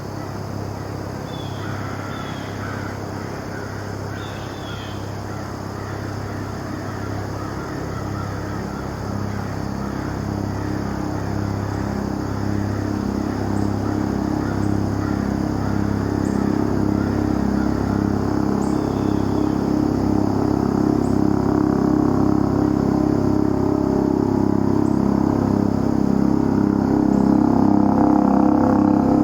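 Bell 407 helicopter's four-blade main rotor and turbine running in flight, a steady pulsing beat that grows slowly louder as it approaches.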